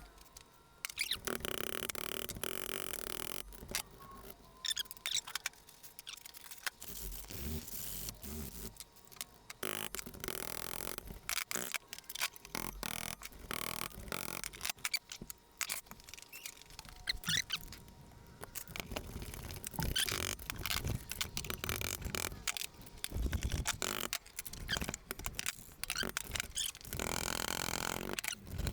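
Irregular taps, clicks and scrapes of hand tools on a tight, rusted motor-mount bolt being tapped and worked loose.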